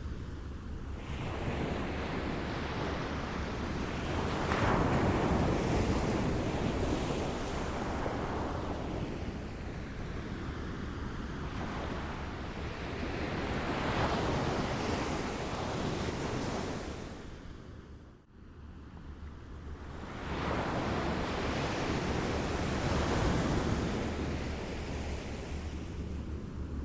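Waves lapping on a shore, swelling and receding in slow surges about every nine seconds. The sound drops away sharply for a moment about two-thirds of the way through.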